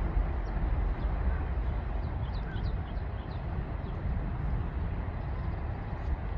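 Sea wind blowing across the microphone as a steady low rumble and rush, with a few faint, short, high bird chirps about two to three seconds in.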